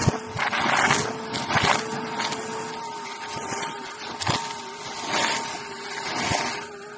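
Vacuum cleaner motor running steadily on carpet, its pitch wavering slightly, with gritty surges and sharp clicks as it sucks up crunchy cereal debris.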